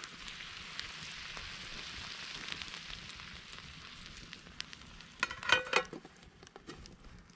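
Trout sizzling over a wood fire: a steady hiss with small crackles that fades after about four seconds. About five seconds in comes a short clatter of ringing clicks, the loudest sound.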